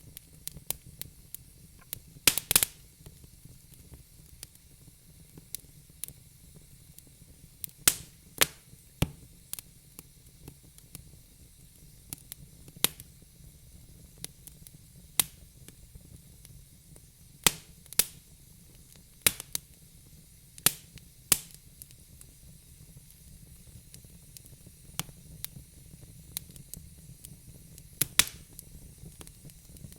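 Wood fire in a fireplace crackling: irregular sharp pops and snaps over a soft steady hiss, with a cluster of louder pops a couple of seconds in.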